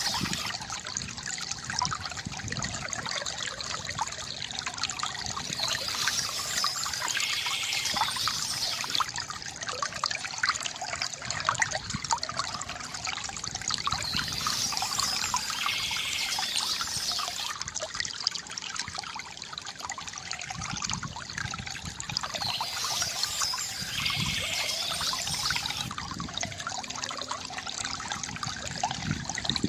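Water trickling and gurgling steadily from a bamboo fountain, with many small splashes of falling water.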